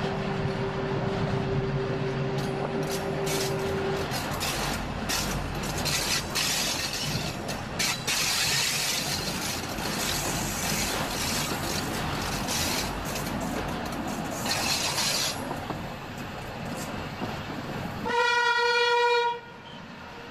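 Electric train running along the rails, with steady rolling noise, scattered wheel clicks and a steady whine for the first few seconds. Near the end, one loud train horn blast lasting just over a second sounds as the train approaches a tunnel entrance, a warning before entering it.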